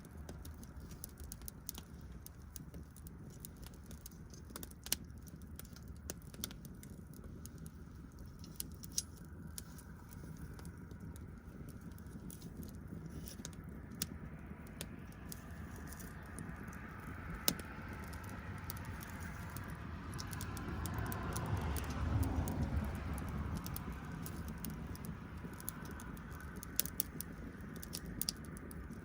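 Wood fire burning, crackling with scattered sharp pops over a low rumble. A rush of noise swells up in the middle and fades again.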